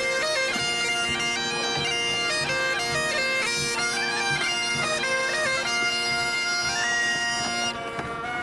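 Biniou braz (Breton bagpipe) and bombarde playing a tune over the bagpipe's steady drones, stopping abruptly near the end.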